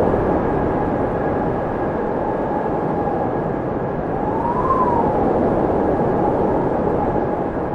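Wind blowing steadily, with a whistling tone that rises and falls as it swells about four seconds in.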